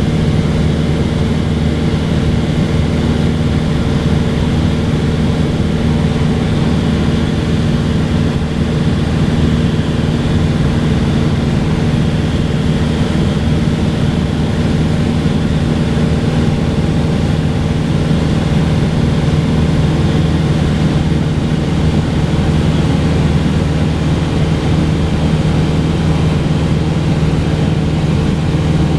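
Cessna 182's single piston engine and propeller running with a steady drone and an even, unchanging pitch.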